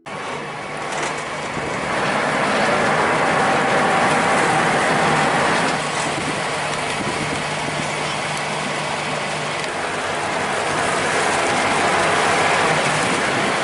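Boat under way on the river: a steady rush of wind and water with a low engine hum beneath it, fading in over the first couple of seconds.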